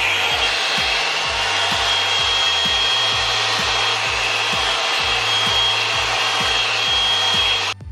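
Revlon Salon One-Step hot-air brush dryer running steadily: rushing air with a high motor whine, switched off near the end.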